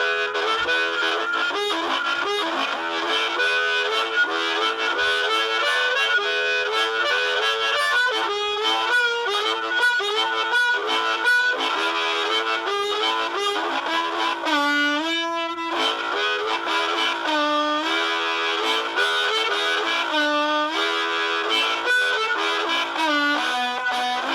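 Harmonica played through a lo-fi Screamer harmonica microphone on a small busker's rig: a continuous run of chords and single notes, with several notes bent in pitch.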